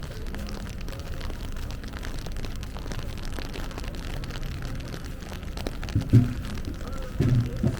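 Rainy city street ambience: a steady wash of rain and traffic noise, with a low steady hum in the second half and two short louder sounds, about six seconds in and near the end.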